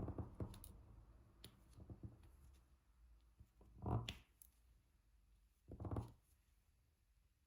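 Diamond painting work: a drill pen picking up and pressing small resin drills onto the adhesive canvas, giving soft taps and clicks every couple of seconds.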